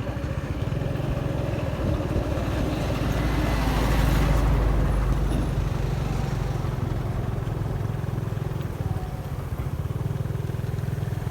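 Motorbike engine running steadily under way, with wind and road noise; the noise swells louder for a moment about four seconds in.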